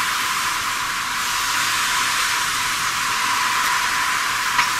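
Steady hiss of a rainy street: rain and car tyres on wet asphalt, thin, with almost nothing in the low range, and a brief click near the end.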